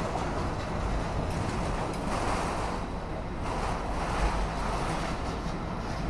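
CSX freight train of autorack cars rolling past: a steady noise of steel wheels on the rails.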